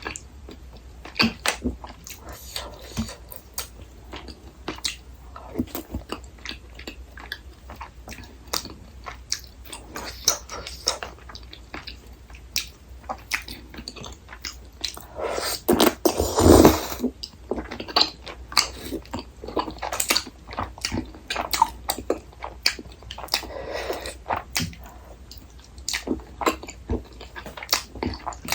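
A person chewing and biting soft food close to the microphone, with many short wet mouth clicks. About halfway through comes a louder, noisier sound lasting about a second and a half.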